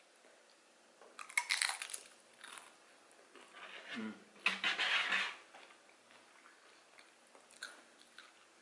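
Crunching and chewing of crisp tortilla nacho chips, in two bouts of crunchy bites: one about a second in and a longer, louder one about four seconds in, with a few small clicks near the end.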